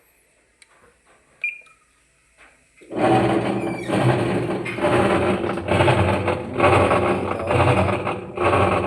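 Haceb Advance LAV 27 washing machine starting its wash cycle: a short beep, then about three seconds in a very loud mechanical racket starts, swelling and easing roughly once a second as the drum agitates. The technician puts it down, 80 to 90% sure, to a faulty transmission.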